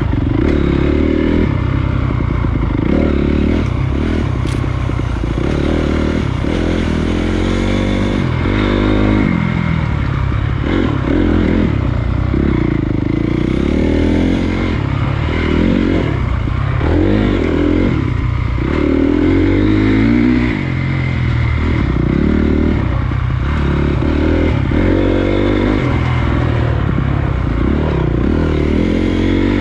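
Honda CRF250 dirt bike's single-cylinder four-stroke engine being ridden on a trail, its pitch rising and falling every second or two as the throttle opens and closes.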